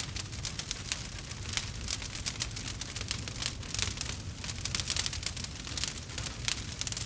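Campfire crackling, with frequent sharp irregular pops over a low steady rumble.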